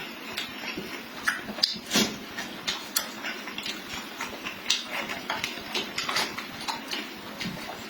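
Close-miked eating sounds: chewing with wet lip smacks and mouth clicks, irregular, several a second.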